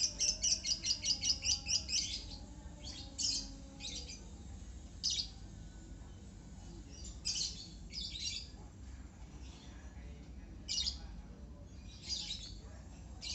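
Lovebird chirping: a fast run of about a dozen sharp chirps in the first two seconds, then single chirps every second or two.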